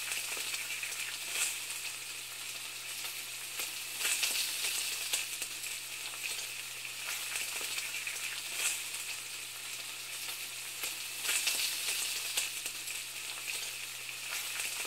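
Food sizzling as it fries in a pan: a steady hiss broken by irregular louder crackles, over a faint steady low hum.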